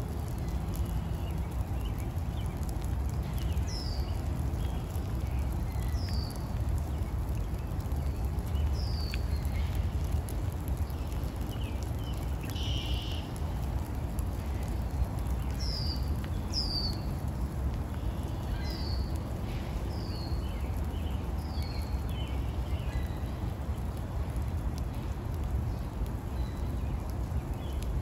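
A bird repeating a short, high call that slides downward, about every two or three seconds, over a steady low outdoor rumble.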